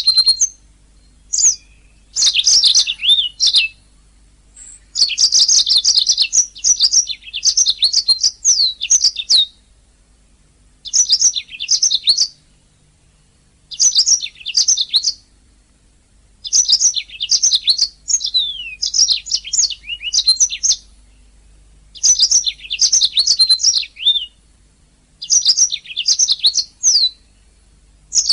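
Domestic canary singing: bouts of fast, high trills and sweeping warbled notes, each lasting one to four seconds, separated by short pauses.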